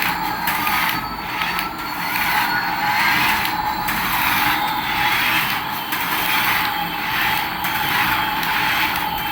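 Battery-powered toy vehicle running: a steady whirring that pulses about every two-thirds of a second, with faint tones slowly gliding up and down.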